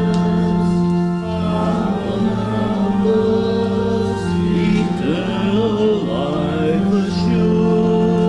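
Congregation singing a hymn together, with long held notes.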